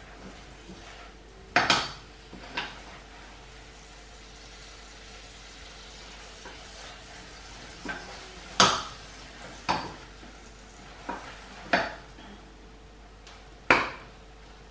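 A spoon stirring marshmallows and butter in a small pot on the stove, knocking against the pot in about nine sharp, irregular clinks over a faint steady background.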